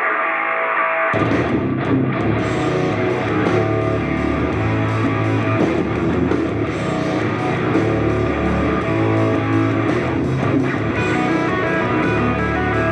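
Guitar-led rock music played on F&D A110 2.1 speakers for a sound test. About a second in it opens out suddenly from a thin sound with no bass to full range with deep bass.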